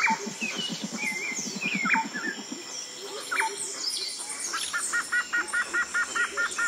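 Birds chirping and calling, with sharp falling whistles, over a fast low pulsing trill for the first two and a half seconds; near the end a rapid run of repeated paired notes.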